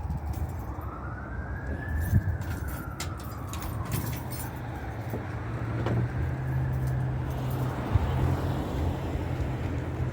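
A siren wailing slowly up and down, over a low steady hum.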